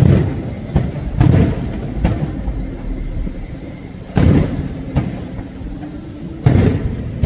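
Aerial firework shells bursting: four loud booms, at the start, about a second in, about four seconds in and about six and a half seconds in, with lighter bangs between them and a rumbling echo dying away after each.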